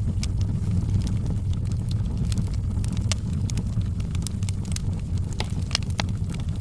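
Wood fire burning in a fireplace: a steady low rumble of flames with sharp pops and snaps of crackling wood scattered irregularly, several a second.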